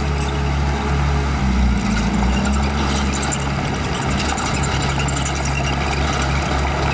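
Small bulldozer's diesel engine running steadily. Its pitch wavers and dips for a couple of seconds in the middle as the engine takes load, with scattered light clatter over it.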